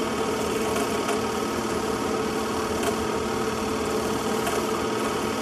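Steady mechanical hum, even and unchanging, with no revving or passing cars.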